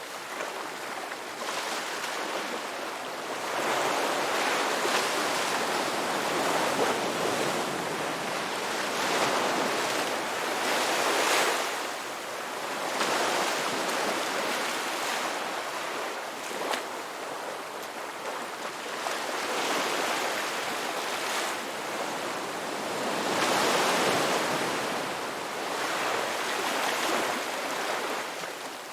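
Ocean waves breaking and washing up on a beach, the surf swelling and ebbing every few seconds.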